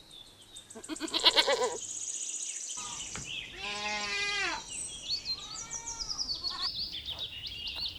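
A goat bleating three times, with the middle call the longest and quavering. Birds chirp in the background.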